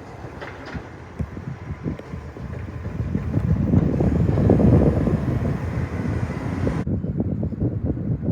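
Recycling garbage truck's diesel engine running, a low rumble that builds to its loudest about halfway through.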